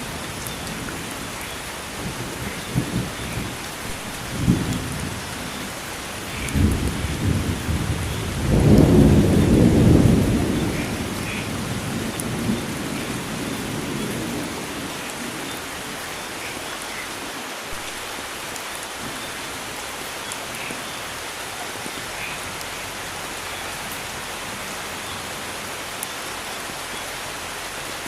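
Steady rain falling, with a roll of thunder: low rumbles build from a couple of seconds in, are loudest about nine seconds in, and die away by about fourteen seconds, leaving only the rain.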